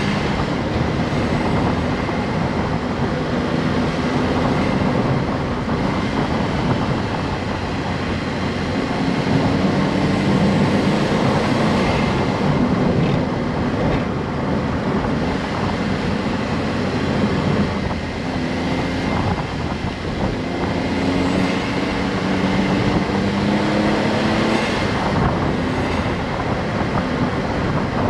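Honda S660's mid-mounted turbocharged three-cylinder engine running while the car drives, over road noise. The engine note climbs slowly and drops back several times.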